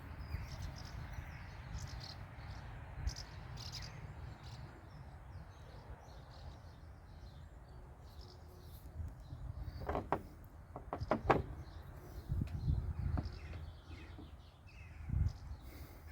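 Outdoor background of faint bird chirps over a low rumble, with a quick run of sharp clicks about ten seconds in and a few duller knocks after.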